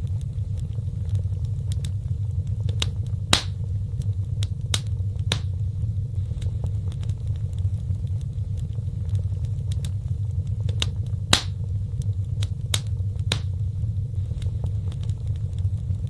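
Fireplace fire crackling: sharp pops scattered over a steady low rumble of flames, with the loudest pops about three seconds in and again about eleven seconds in.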